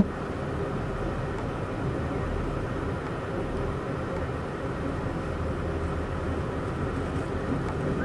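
Steady running rumble and rail noise of a moving Amtrak Empire Builder passenger train, heard from aboard.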